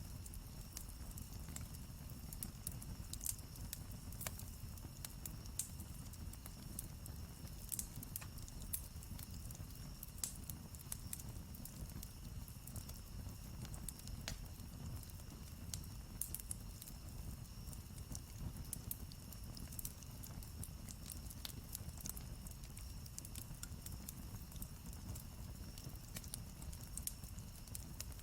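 Campfire crackling, with irregular sharp pops and snaps from the burning wood over a low steady rumble of the flames.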